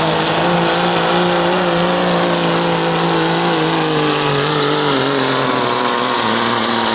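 Turbocharged diesel pickup engine running hard under full load as it pulls the sled, its pitch holding steady and then sinking gradually from about four seconds in as the rpm are dragged down by the growing load.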